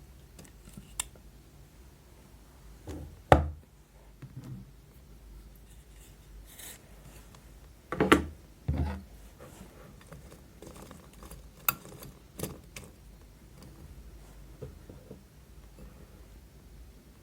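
Scattered taps, scrapes and knocks of slime-making tools and containers being handled on a work surface, with loud knocks about three seconds in and again around eight seconds in.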